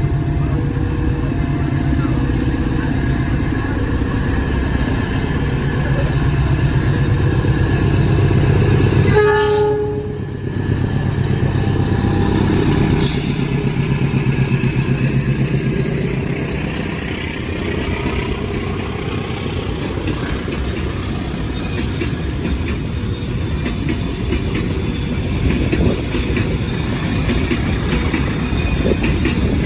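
Train passing close by: a steady engine drone, a short horn blast about nine seconds in, then wheels clattering over the rail joints as the carriages go by.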